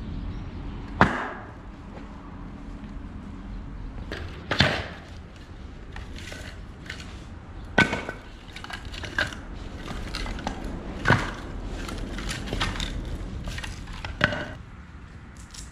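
Wood being chopped: five sharp strikes about three seconds apart, the second and third loudest, with lighter knocks and splintering cracks between.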